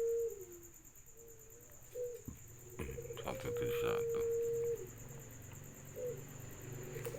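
Dove cooing: a short note followed by a long, steady held coo, repeated, with a few sharp clicks in the middle.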